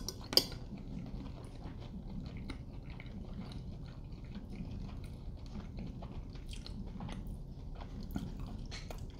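Quiet chewing of mouthfuls of baked sausage, apple and rice casserole, with small wet mouth sounds. Near the start there are two sharp clicks of forks against china plates.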